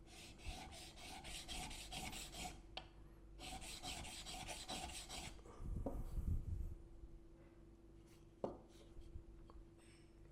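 Steel chisel bevel stroked quickly back and forth on a wet diamond sharpening plate, in two runs of rasping strokes at about four or five a second, flattening the bevel. A low thump of the tool being handled follows, with a few light clicks.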